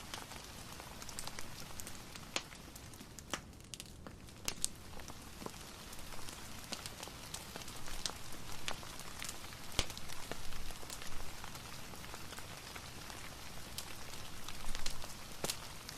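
Soft steady rain mixed with a crackling fireplace: an even hiss throughout, with irregular sharp pops and ticks scattered through it.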